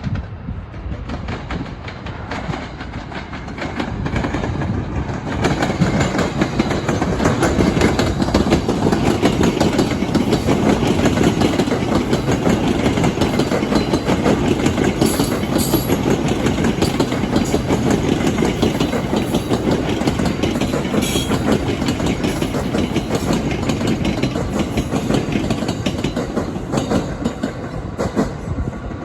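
A train passing close by, its wheels clattering steadily over the rails. The sound builds over the first few seconds, then stays loud until it eases near the end.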